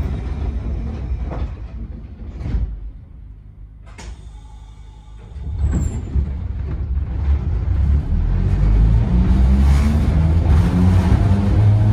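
Sangi Railway Hokusei Line Mo 275 electric railcar pulling away, heard from inside the passenger car. There is a sharp knock about four seconds in. Then the running rumble builds and the traction motors' whine rises steadily in pitch as the train accelerates.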